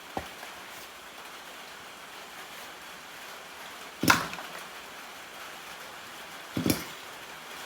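Two sharp knocks about two and a half seconds apart, the first louder, over a steady low hiss.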